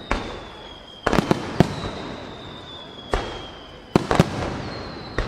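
Aerial firework shells, trailing willow-type effects, bursting overhead: about eight sharp booms, some in quick clusters, each trailing off in a rolling echo. A thin whistle slides slowly down in pitch behind the booms.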